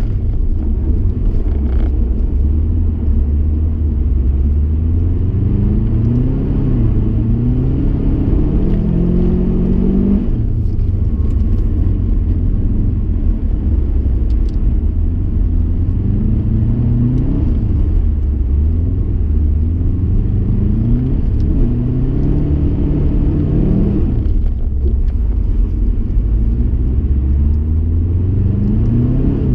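Subaru Impreza STI's turbocharged flat-four engine, heard inside the cabin, driven hard with revs repeatedly climbing and falling back under a heavy low rumble. The engine note drops away briefly about ten seconds in and again near the end, as the driver lifts off.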